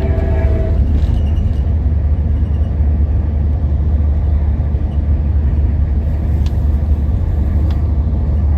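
Steady low rumble of an Amtrak Capitol Corridor passenger train in motion, heard from on board, with a few faint clicks in the second half. A held chord of steady tones cuts off within the first second.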